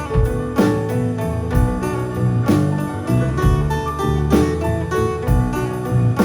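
Live band playing, with a steady drum beat under guitar and keyboard.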